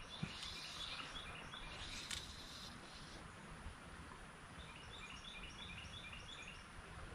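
Faint creekside ambience with a small bird singing two runs of quick high chirps, about three a second, the first near the start and the second from about four and a half seconds in. A light click sounds about two seconds in.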